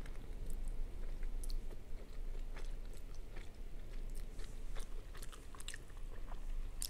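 Close-up sounds of a person eating spicy instant noodles, Samyang Carbo fire noodles: chewing with soft, irregular wet mouth clicks.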